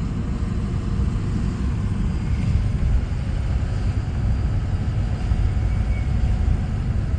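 Car driving along a city street: a steady low rumble of engine and road noise.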